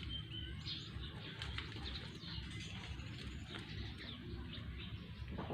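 A group of birds calling in short, repeated chirps over a steady low background rumble.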